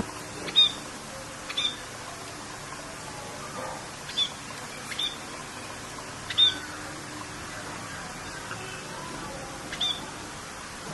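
Steady rain hiss with a bird calling over it in short, sharp, high chirps, about six of them spread across the stretch.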